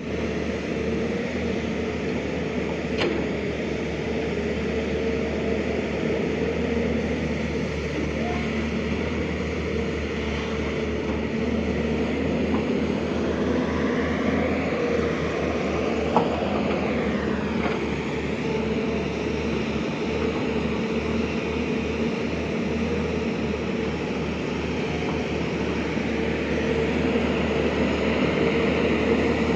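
Excavator's diesel engine running steadily under work, with a faint whine that rises and falls midway and one sharp knock about two-thirds of the way through.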